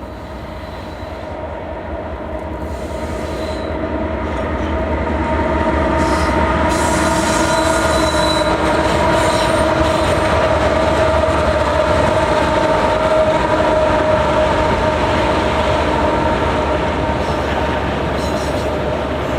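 A train running past at close range, growing louder over the first six seconds and then holding steady, with a steady high whine running through it.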